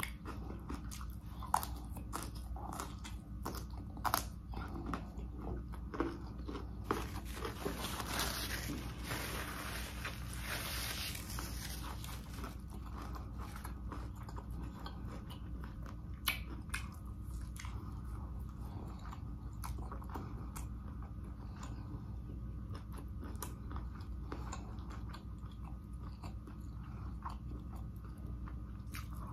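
Close-miked biting and chewing of broccolini and chicken, with crunching and wet mouth clicks scattered through. A denser, noisier stretch of chewing comes about a third of the way in.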